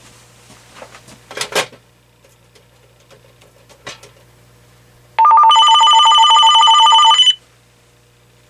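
AT&T 7720 cordless phone ringing once: an electronic trill of two rapidly alternating tones, about two seconds long, starting about five seconds in.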